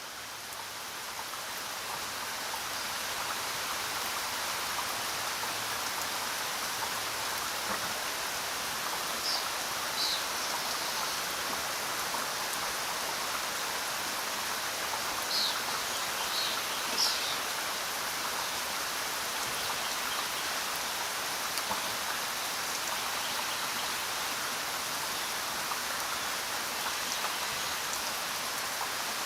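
Steady rain, an even hiss of falling drops, swelling in over the first few seconds. A few brief high chirps sound faintly over it around the middle.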